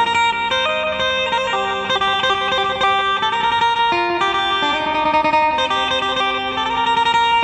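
Phin, the Isan plucked lute, played with an electric tone: a flowing melody of sustained plucked notes over a steady low drone.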